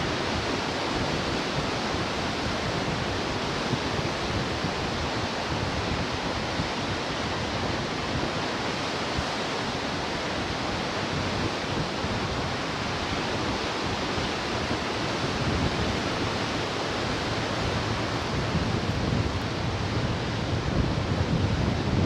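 Ocean surf washing onto the shore, a steady rushing hiss of breaking waves that swells a little louder with a deeper rumble from about eighteen seconds in.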